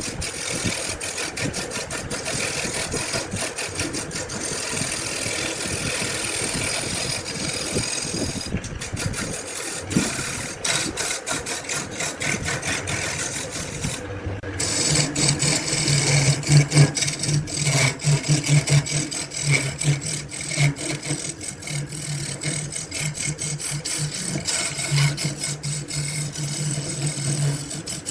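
A motorised tool working wood, running steadily with a fast rattling, clicking texture. About 14 seconds in the sound breaks off briefly, then carries on with a steady low hum that swells and fades.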